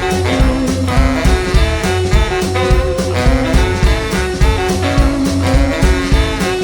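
Rockabilly band playing an instrumental passage with a steady beat, without vocals.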